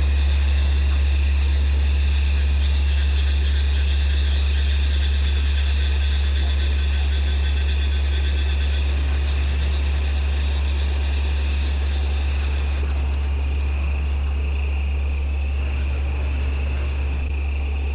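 Crickets and other insects chirping steadily, with a regular high pulsing chirp, over a loud, constant low hum.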